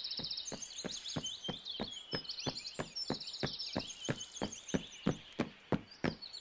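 Cartoon footstep sound effect: light knocks about three a second that stop near the end, over birds chirping and trilling.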